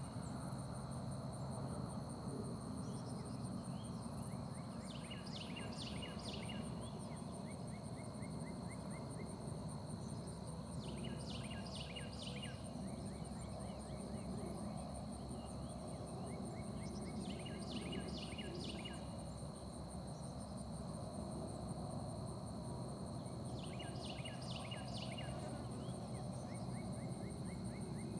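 A songbird repeating the same short phrase of quick, high descending notes about every six seconds, over a steady high-pitched insect drone.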